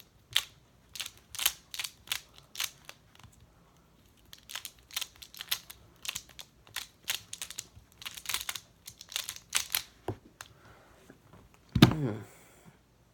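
A MoYu magnetic Skewb being turned fast in a speed solve: a rapid run of plastic clicks and clacks, with a short break partway through and a single louder knock near the end.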